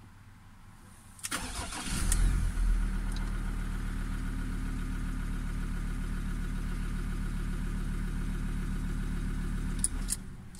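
Ford Ranger Wildtrak's diesel engine cranked by the starter about a second in, catching quickly and settling into a steady idle. It is switched off near the end, with a click or two as it stops.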